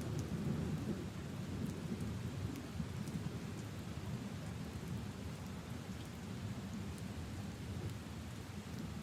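Steady rain falling on leaves and into puddles, with scattered drop ticks over a low rumble that eases a little after the first couple of seconds.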